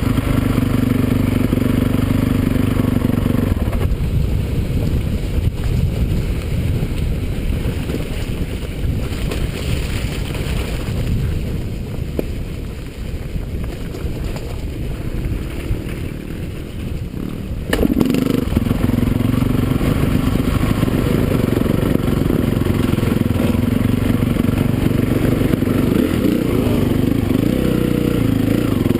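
Motocross bike engines running loudly. They fade to a quieter, rougher stretch about 4 seconds in, then return loud all at once about 18 seconds in.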